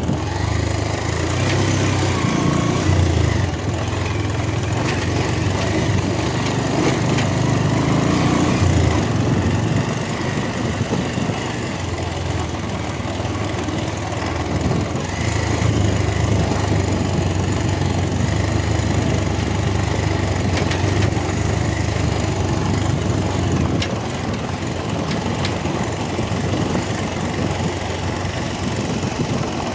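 Motorcycle engine running steadily under way, a continuous low engine drone that swells and eases a little.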